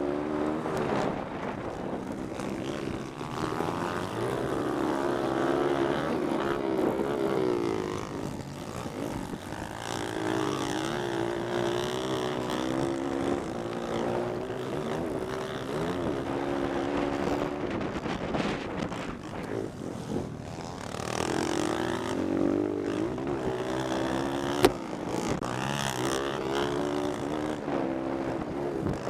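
Pit bike engine revving up and easing off again and again as the bike is ridden hard around a track, heard from the rider's helmet. A single sharp knock comes late on.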